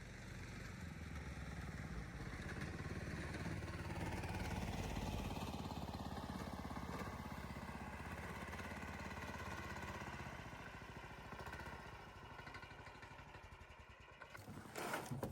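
A small engine running steadily with a fast, even pulse, swelling in at the start and slowly fading after about ten seconds.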